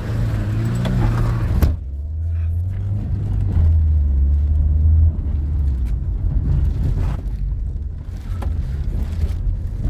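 Car engine running, heard from inside the cabin as the car drives along: a low, steady drone.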